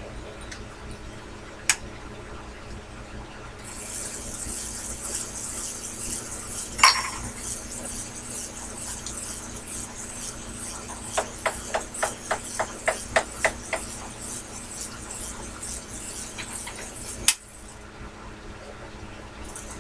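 Metal clinks and ticks at a Sherline bench lathe over a steady hum. A sharp ringing clink comes about seven seconds in, then a run of about ten light ticks, roughly four a second. A hiss that began a few seconds in stops with a click near the end.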